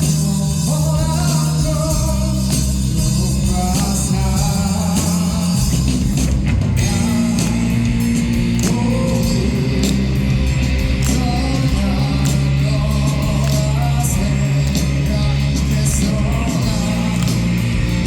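Rock band playing a song with a singer: guitars, bass and drums under a sung melody, the cymbals growing busier about six seconds in.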